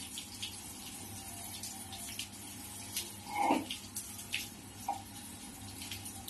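Steady hiss of water falling like rain, with scattered sharp ticks of drops striking. A short, louder higher-pitched sound stands out about halfway through.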